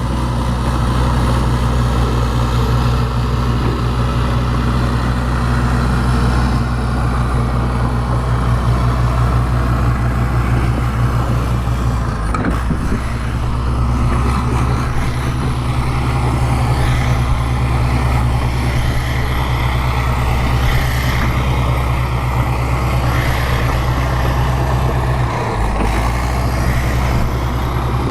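Bulldozer's diesel engine running steadily with a low drone, briefly dipping twice.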